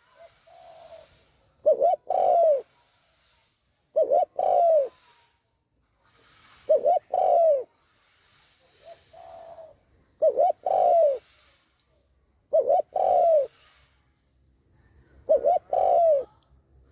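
Spotted dove cooing: a phrase of two short notes and a longer note that falls in pitch at its end, repeated six times about every two and a half seconds, with fainter single coos in between.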